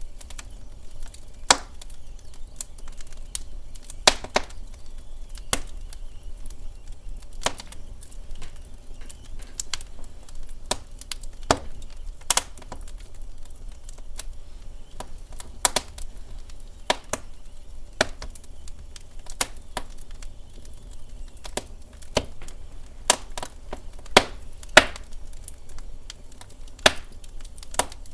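Wood fire crackling in a fireplace: irregular sharp pops and snaps, about one or two a second, over a steady low rumble.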